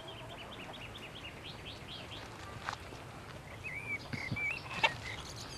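Small birds chirping over quiet outdoor ambience: a quick run of short rising chirps, then a few warbling whistled notes. Two sharp clicks cut in, the louder one near the end.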